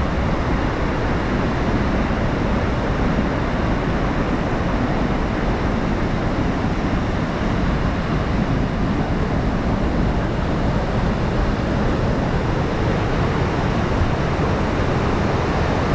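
Steady, loud rush of a large waterfall pouring down, an even roar heavy in the low end.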